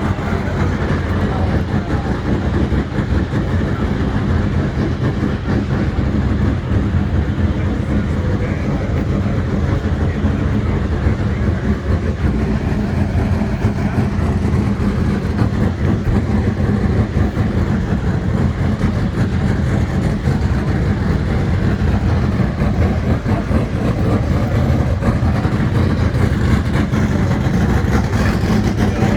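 A car engine idling steadily, with a deep, even exhaust note.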